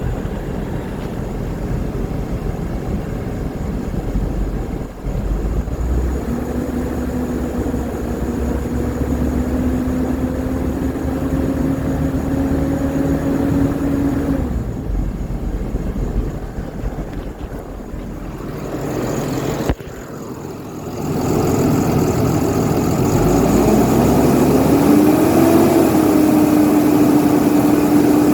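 Diesel engine noise from a 2008 Peterbilt reefer truck: a steady low rumble with a hum that slowly rises in pitch through the first half. It drops away with a sharp click about two-thirds in, then comes back louder, climbing in pitch and holding steady near the end.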